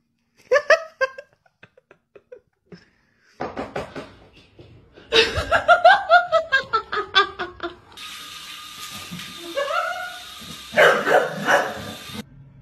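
Human laughter and short bursts of voice, changing every few seconds as the sound cuts from clip to clip, with a run of quick clicks or knocks about three and a half seconds in.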